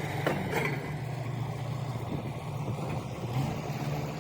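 A truck's engine running steadily, with two short clicks within the first second.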